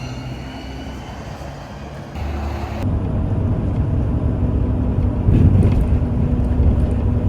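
A moving vehicle's steady low engine and road rumble, in short clips cut together; the rumble gets louder at the cuts about two and three seconds in.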